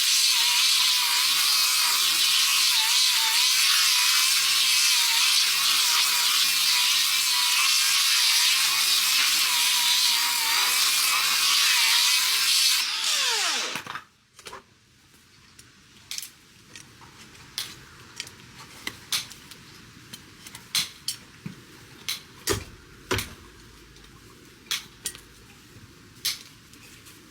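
Handheld power tool running steadily on a horse's hoof, with a wavering whine. About thirteen seconds in it is switched off, and its pitch falls as it spins down. After that come scattered sharp clicks and taps.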